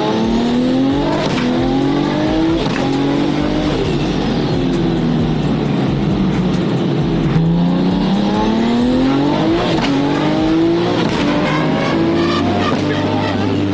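Built RB straight-six of an R34 Skyline GT-R accelerating hard through several gears. The revs climb and drop sharply at each shift, then the engine eases off and pulls through the gears again. A high whistle rises along with the revs.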